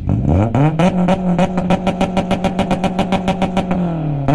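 Honda car engine with a loud aftermarket exhaust revved hard: the pitch climbs quickly, holds at high revs with a rapid, regular pulsing about eight or nine times a second, then drops back, with a short blip near the end.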